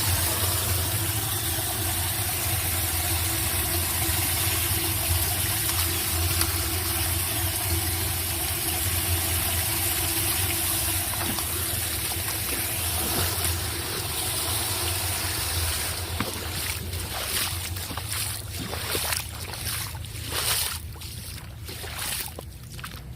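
Floodwater pouring steadily into a street storm drain, a continuous rushing. In the last several seconds it is broken by irregular bumps and gusts across the sound.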